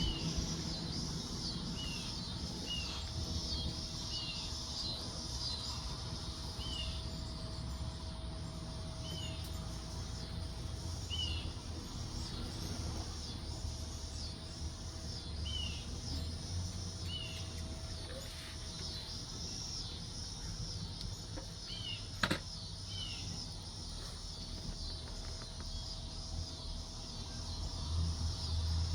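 Hummingbirds giving short, high chip calls, one every second or two, over a steady drone of insects and a low rumble. A single sharp click comes about two-thirds of the way through.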